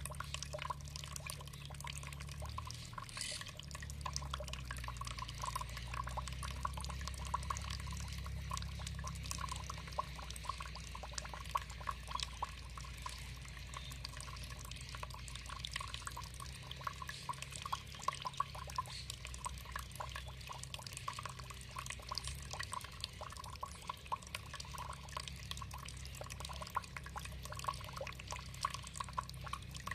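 Running water trickling and splashing, with many small drips and splashes over a steady low rumble.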